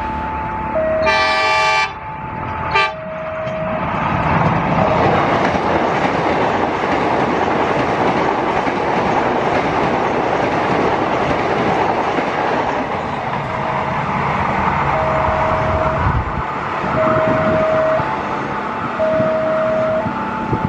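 Electric commuter train sounds its horn, one blast of about a second followed by a short toot, then passes with a steady rumble and clatter of wheels on rail. Under it, a level-crossing warning alarm alternates between two tones.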